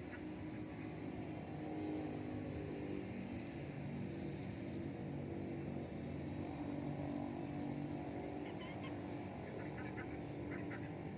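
An engine running steadily at a low, slightly wavering pitch. Faint short clicks or pecks come near the end.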